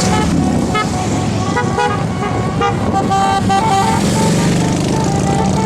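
A pack of motorcycles rumbling past, with many short horn toots at a few different pitches sounding one after another.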